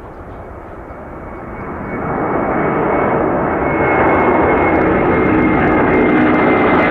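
Airbus A330-200 twin-jet engines at high power, growing much louder over about two seconds and then holding loud, with a steady high fan whine over the rush.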